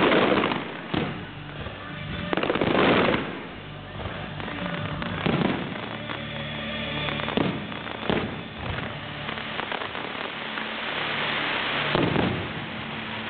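Aerial fireworks shells bursting: about seven booms at uneven gaps of one to four seconds, the loudest near the start and about three seconds in. Music plays underneath throughout.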